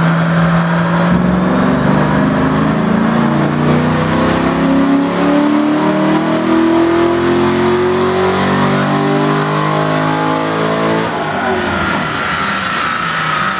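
Chevrolet Corvette ZR1's V8 at full throttle on a chassis dyno, holding steady for about a second and then climbing steadily in pitch through one long gear pull. About 11 seconds in the throttle is lifted and the engine note drops off sharply, leaving a falling whine as it winds down.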